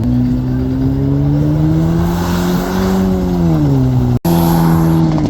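Truck engine revving: its pitch climbs slowly for about three seconds, then drops back down. The sound cuts out for an instant about four seconds in.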